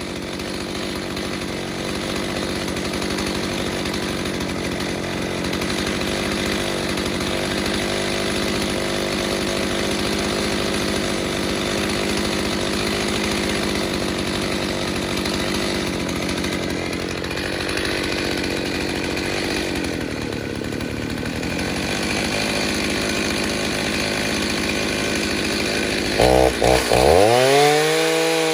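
Freshly rebuilt Stihl 029 two-stroke chainsaw running at high revs with a steady note that sags briefly about two-thirds of the way through. Near the end it is revved up and down several times in quick blips.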